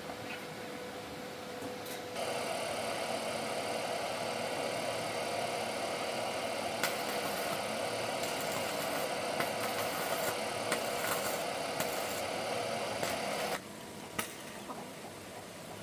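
A power tool's electric motor runs steadily for about eleven seconds, with a few sharp clicks, then cuts off suddenly.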